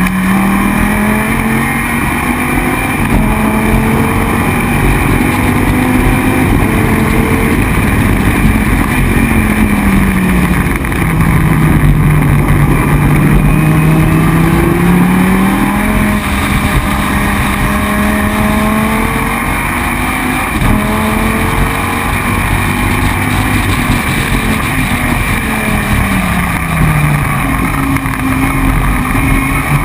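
Dodge Viper GT3 race car's V10 engine running hard and loud on track. The engine note climbs under acceleration and drops back as the car slows, several times over.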